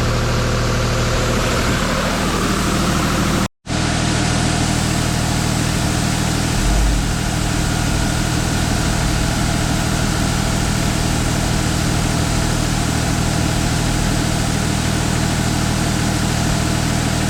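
Engine running steadily at a constant speed, cut off abruptly for a moment about three and a half seconds in and then running on unchanged.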